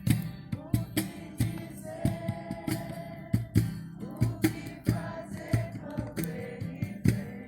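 Voices singing a worship song together to a strummed acoustic guitar, with a steady run of sharp beats from percussion or clapping.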